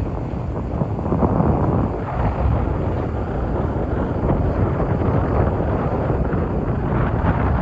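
Excavator working, its engine running steadily with a low, rough rumble.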